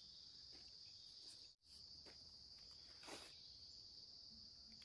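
Faint, steady high-pitched chorus of forest insects, cutting out for an instant about a third of the way through, with a soft rustle about three seconds in.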